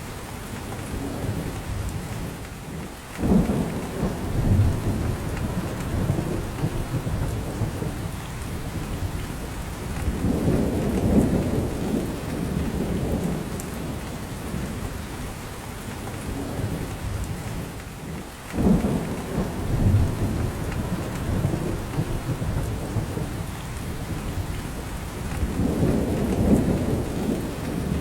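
Steady rain falling in a spruce forest, with drops coming off the branches. A low rumble swells up and fades away four times, about every seven to eight seconds.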